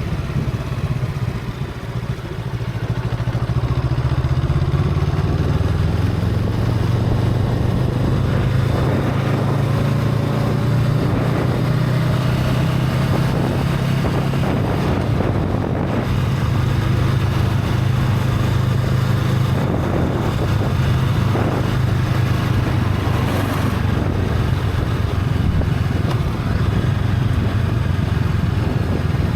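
Honda Rebel 500 parallel-twin engine with its stock exhaust running under way while riding. It grows louder over the first few seconds, then holds a steady drone.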